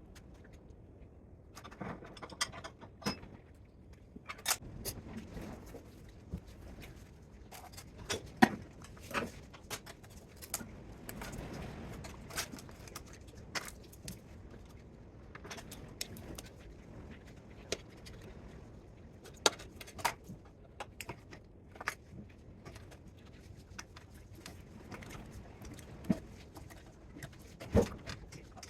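Irregular metallic clinks, taps and knocks of small metal parts and hand tools being handled while stripping a welder for scrap, with a few sharper knocks scattered through.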